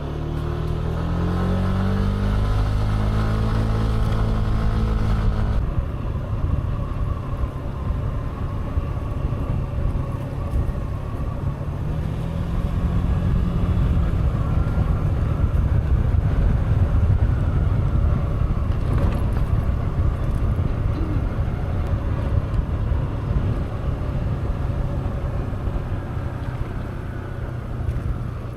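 Yamaha S-Max scooter engine pulling away, its pitch rising over the first five seconds or so, then running steadily at riding speed with a constant low rush for the rest of the stretch.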